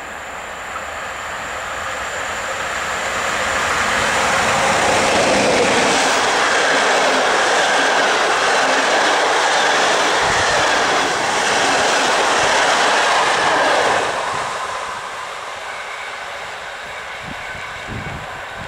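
EP07 electric locomotive hauling a passenger train past. The noise builds over about four seconds, stays loud for about ten, then drops off quickly about fourteen seconds in and trails away.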